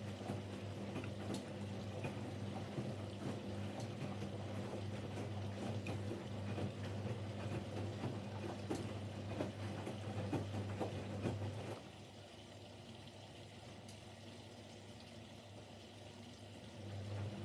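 Siemens Siwamat Plus 574 washing machine in its rinse cycle: a steady motor hum with water sloshing in the drum. It stops about twelve seconds in and starts again near the end, the usual pause-and-reverse of the tumbling drum.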